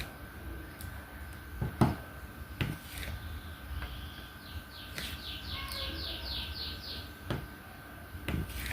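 Scattered light taps and clicks of a diamond-painting drill pen and plastic tray as resin drills are picked up and pressed onto the canvas, the loudest tap near two seconds in. Midway a bird chirps a quick run of about nine high notes, with a faint steady hum under it all.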